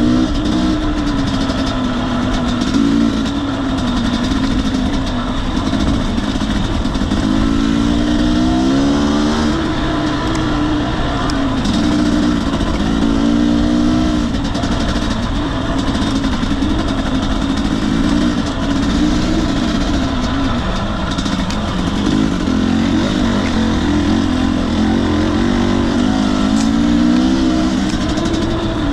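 2021 Husqvarna TE250i two-stroke enduro engine running under load on trail, its pitch rising and falling constantly as the throttle is blipped and rolled off, with a few quick runs up through the revs. A steady hiss of wind and tyre noise runs underneath.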